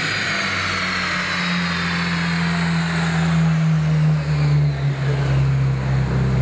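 Ferrari 430 Scuderia V8 with cat bypass pipes and an X-pipe muffler delete, winding down after a rev on the dyno. The low engine note settles to a steady idle while a high whine slowly falls in pitch and fades over the first few seconds.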